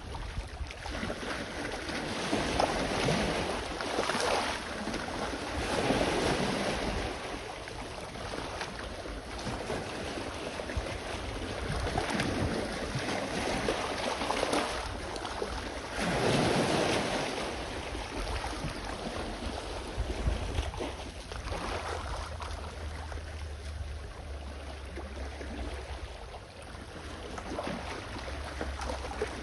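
Sea waves washing onto the shore, swelling and falling back every few seconds, with one bigger surge about halfway through. A low wind rumble on the microphone runs underneath.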